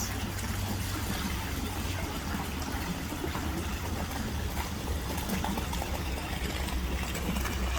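Steady running water, like a tap or shower stream, with a low steady hum underneath.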